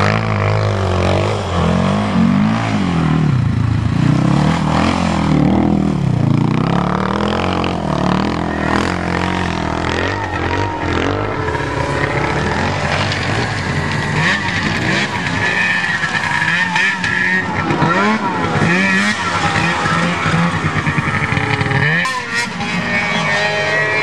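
Off-road vehicle engine revving up and down again and again, its pitch rising and falling with the throttle.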